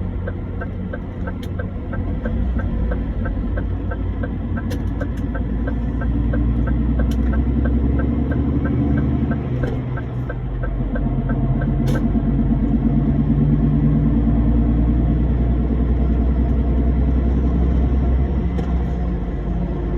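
Lorry engine running with a steady low rumble. A fast, light, regular ticking of about three or four a second runs over it for the first half, with a few sharp clicks.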